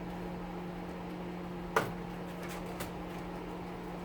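Steady hum of a wood stove's blower fan, with one sharp click a little under halfway through and two fainter clicks soon after.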